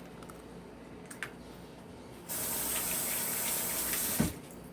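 Kitchen faucet turned on and running into the sink for about two seconds, then shut off with a thump.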